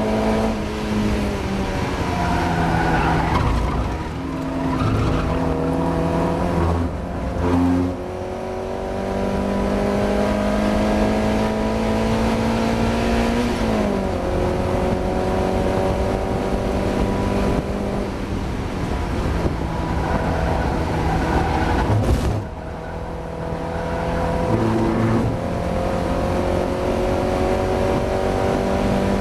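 Mazda MX-5 race car's four-cylinder engine under hard acceleration, the revs climbing steadily through each gear and dropping sharply at gear changes and lifts several times, the longest pulls lasting about six seconds. The engine is running with a misfire.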